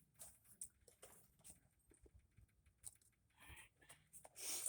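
Faint, scattered ticks and scrapes of a paint scraper working ice off an iced-over backhoe control-panel cover, with a louder scrape near the end.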